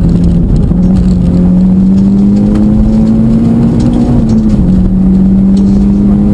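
Mitsubishi Lancer Evolution X rally car's turbocharged four-cylinder engine running under load, heard from inside the cabin. Its note dips briefly near the start, climbs slowly, dips again about four seconds in, then holds steady.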